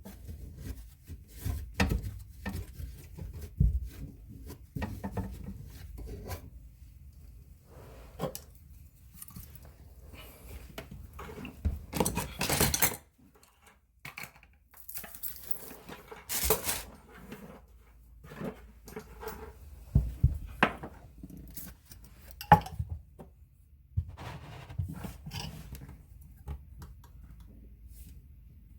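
Irregular clattering, knocking and clicking of tools and drain parts being handled during sink drain reassembly, with a couple of brief rasping noises about halfway through.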